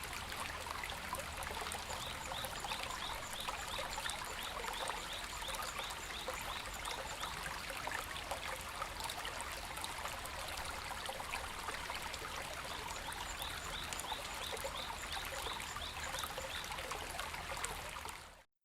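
Babbling stream, a steady rush of shallow running water, with a fast repeated chirping in two stretches. It fades out near the end.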